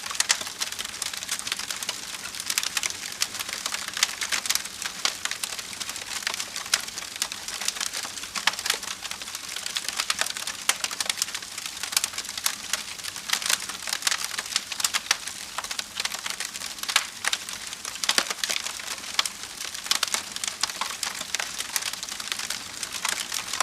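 Wood fire burning in a fireplace: a steady hiss with many quick, sharp crackles and pops from the burning logs.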